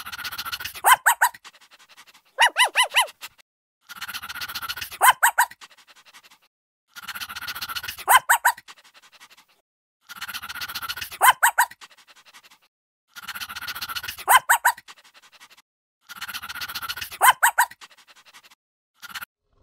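An animal call repeated six times, about every three seconds: each time a breathy rasp, then three or four quick high-pitched yelps.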